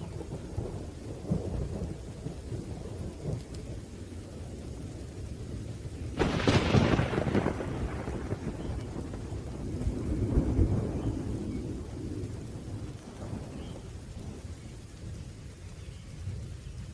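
Thunderstorm: continuous low rumbling thunder over steady rain, with a sudden sharp thunderclap about six seconds in that rolls on for a couple of seconds, and another swell of rumble a few seconds later.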